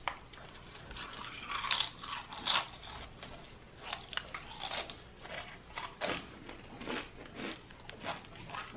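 Close-up crunching and chewing of ghost pepper chips: irregular crisp crunches, several a second at times, with short pauses between bites.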